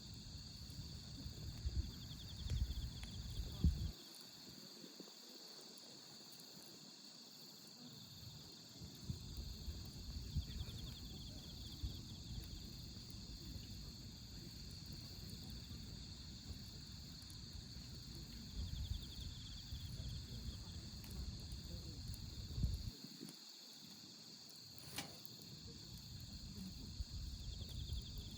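Crickets chirping steadily, with a trill that comes back every eight or nine seconds, over a wood fire burning in a fire pit. A low uneven rumble comes and goes, and one sharp crackle of the fire pops late on.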